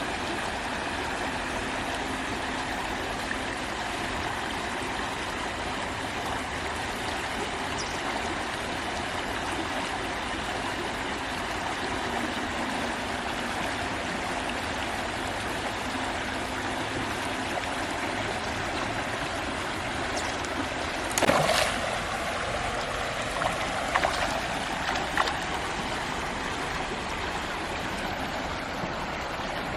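Steady sound of flowing river water. There is a brief louder disturbance about two-thirds of the way through, and a few smaller ones shortly after.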